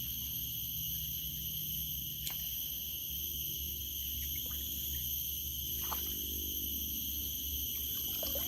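Steady high-pitched drone of insects in tropical forest, with a low rumble underneath and a few faint clicks.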